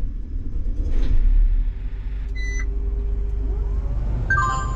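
Combine's diesel engine running with a steady low rumble, coming on suddenly at the start, while the cab's electronic alarm beeps twice, warning that the ladder is down.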